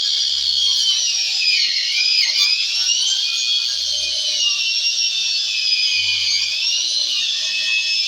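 A high-speed electric power tool whining as it cuts into a wooden speaker box, its pitch dipping under load about two seconds in and again near the end.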